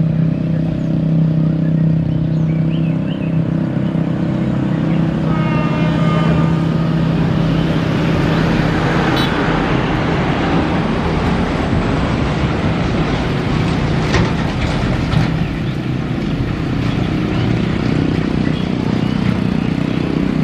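Steady running noise of a diesel-hauled passenger train moving away along the tracks, a low drone with rail noise that swells around the middle. A brief higher tone sounds about five seconds in.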